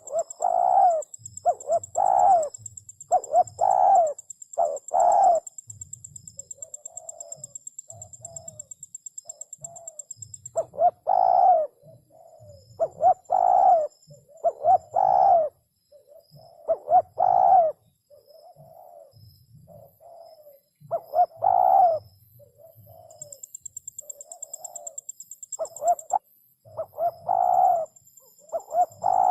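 Spotted dove cooing: repeated phrases of low coos, loud groups of notes alternating with softer, quieter ones.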